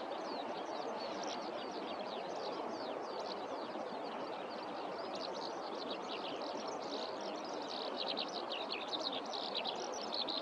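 Eurasian skylark singing a continuous stream of rapid high chirps and trills, denser and louder in the second half, over a steady background hiss.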